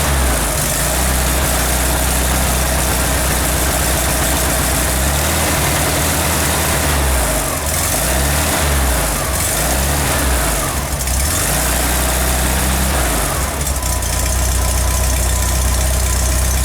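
Freshly built 1776 cc air-cooled Volkswagen flat-four engine in a 1966 Beetle, idling on its first test fire. Its speed wavers up and down a little through the middle, then settles back to a steady idle.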